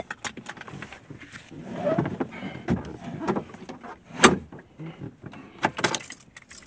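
A string of irregular clicks and knocks, with one louder knock about four seconds in.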